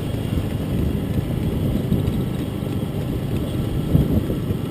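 Steady low rumble of a vehicle running, with wind noise on the microphone.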